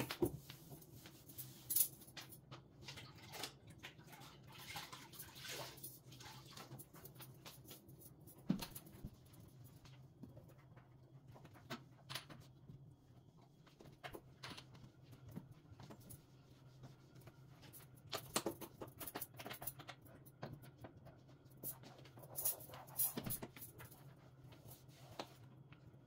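Scattered light knocks, clicks and rustles of household items being handled and set down, over a faint steady low hum.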